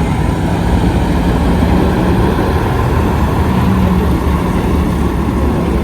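Big-rig truck diesel engine running steadily, a loud, even low drone with a constant hum and no change in pitch.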